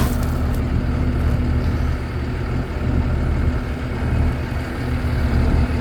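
Peterbilt box truck's diesel engine idling steadily.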